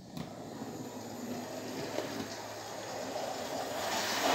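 Gauge 0 model steam locomotive running along the track, its motor and wheels making a steady rumbling whirr that grows steadily louder as it speeds up.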